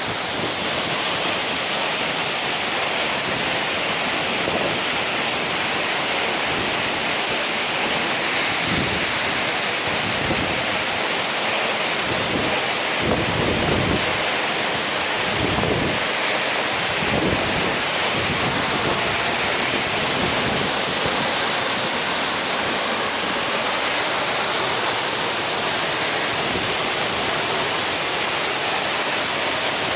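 Waterfall pouring close by, a loud, steady, even rush of water, with a few gusts of wind buffeting the microphone partway through.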